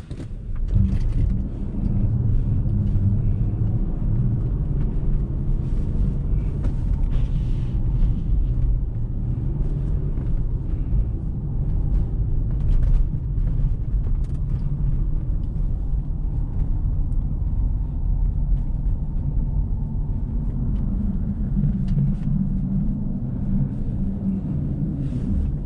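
Car driving over a snow-covered road: a steady low engine and tyre rumble with scattered short clicks and knocks.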